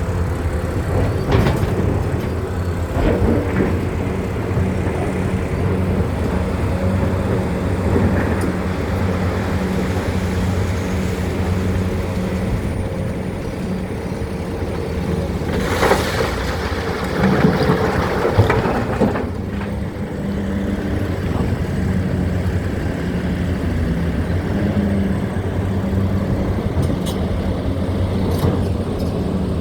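Hitachi 870 excavator's diesel engine running steadily under work, with a louder rush of noise about sixteen to nineteen seconds in.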